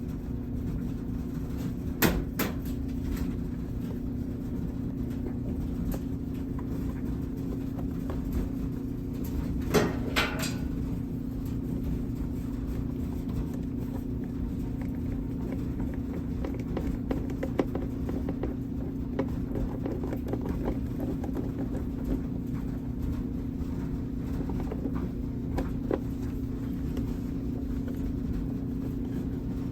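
Hands handling the plastic parts of a washing machine's air separator, giving a few sharp clicks and knocks, the loudest about 2 and 10 seconds in, over a steady low hum.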